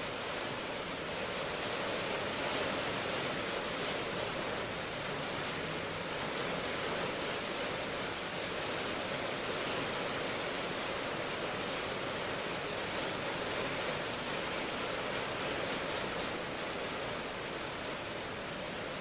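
Steady rain ambience: an even wash of rainfall noise, with no distinct drops or other events.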